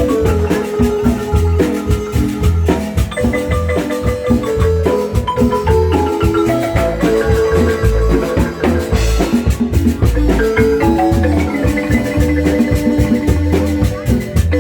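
Marimba music: a quick melody of struck mallet notes over a steady, repeating low bass.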